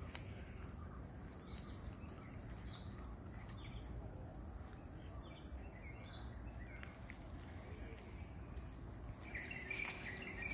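Faint bird chirps: four short, high calls a second or more apart, over a low steady background rumble.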